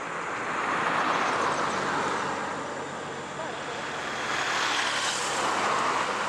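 Vehicles passing with a rushing noise that swells about a second in and again around five seconds in.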